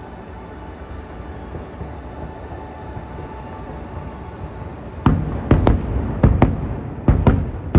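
Fireworks: a steady low rumble, then from about five seconds in a quick run of sharp bangs and booms, about two a second, much louder than the rumble.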